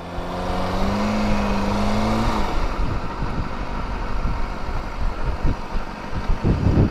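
Kawasaki ZX-6R inline-four engine running at steady revs for about two seconds, then the engine note drops away and wind noise over the helmet microphone takes over.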